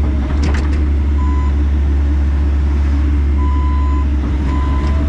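Bobcat E85 excavator's diesel engine running steadily with a low hum, while a backup alarm sounds a few short high beeps, irregularly spaced, mostly in the second half.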